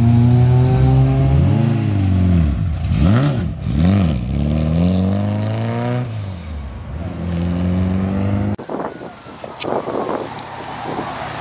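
Car engines run at close range. A steady note is broken by three quick revs that rise and fall about two to four seconds in, then settles into a steady note again. That note cuts off abruptly late on, and a quieter engine sound follows.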